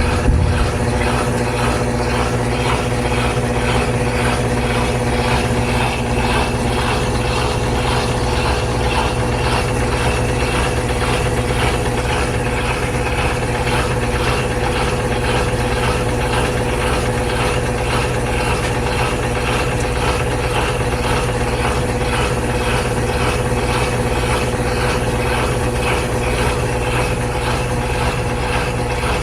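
GE Spacemaker GUD24ESSM1WW washer in its final spin, the tub spinning steadily with an even motor hum and a steady whining tone.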